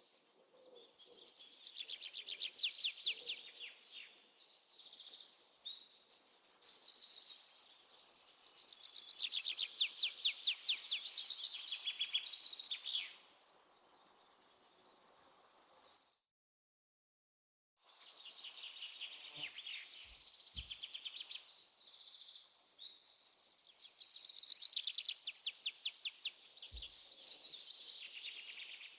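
Songbirds singing in rapid trills and chirped phrases of high notes, with a break of about two seconds of silence just past halfway. Near the end, a quick run of clear repeated notes.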